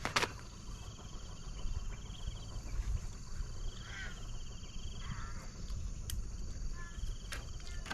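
Insects trilling in short pulsed phrases about every two seconds over a steady high-pitched drone, with a few brief chirps mixed in.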